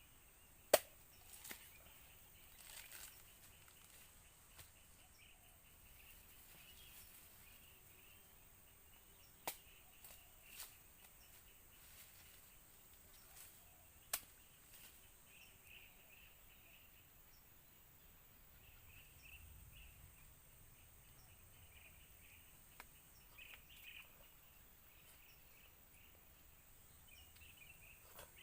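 Faint outdoor forest ambience: a steady high hiss with soft scattered chirps, broken by a few sharp clicks. The loudest click comes about a second in, and two more come about a third and halfway through.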